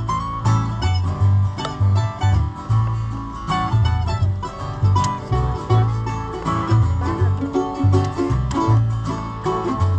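Acoustic bluegrass band playing an instrumental break: banjo picking over guitar, with a bass line of low alternating notes about twice a second.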